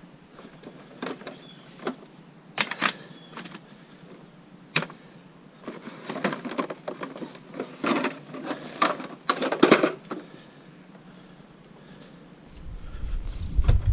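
Scattered knocks and clatters of hard objects being handled and set down, busiest between about six and ten seconds in. A low rumble comes in near the end.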